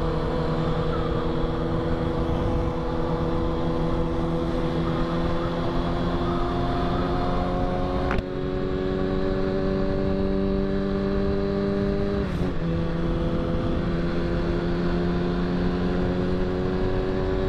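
Four-cylinder motorcycle engine running at a steady cruise, its pitch rising slowly, broken twice by short drops about eight and twelve seconds in, with wind rush over it.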